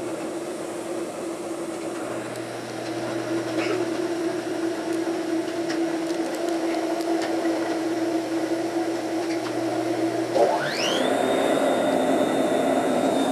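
Machinery running with a steady hum. About ten seconds in, a motor spins up: its whine rises quickly, then holds high and steady as the sound grows louder.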